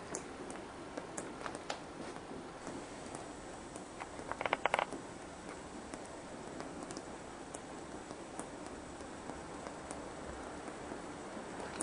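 Steady rain heard from inside a house, with scattered single drops ticking. A short, quick run of clicks comes about four seconds in.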